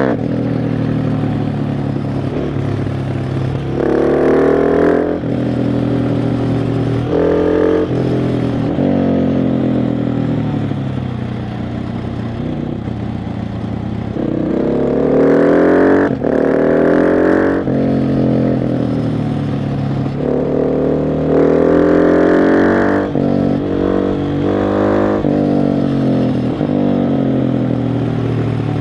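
KTM 690 SMC R's single-cylinder engine under way, accelerating and rolling off the throttle: several rising bursts of revs, each a second or two long, with the pitch dropping back in between.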